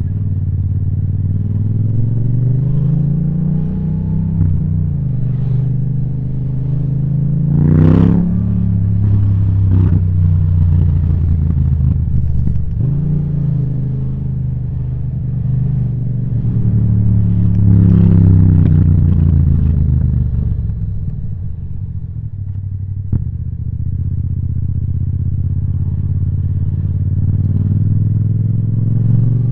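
Yamaha MT-07's parallel-twin engine through an Akrapovic titanium exhaust, running under way with the revs repeatedly rising and falling as the bike accelerates and slows. There is a sharp rev blip about eight seconds in and another climb and drop in revs around eighteen seconds.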